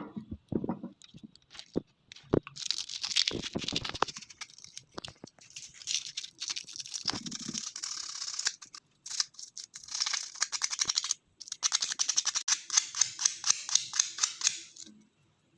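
Zero-grade emery paper rubbed quickly back and forth over the cooler water pump's metal shaft, a scratchy rasping of several strokes a second with a couple of short pauses, scouring off mineral scale. A few light handling knocks come before the rubbing starts.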